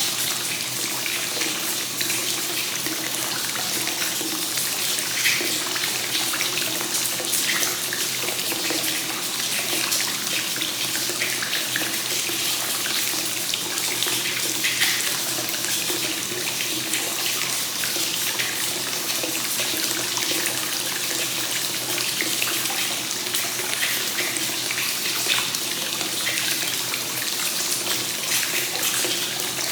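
Hot spring source water pouring continuously into a bath and splashing steadily, as in a free-flowing (kakenagashi) onsen bath.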